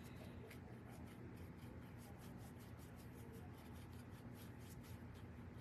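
Faint, quick, rhythmic strokes of paint being applied to a small craft ornament, over a low steady hum.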